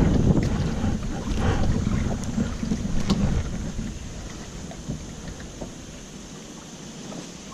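Wind buffeting a GoPro's microphone, a low rumble that dies down about four seconds in to a softer hiss of wind and water, with a few light splashes of water in the first half.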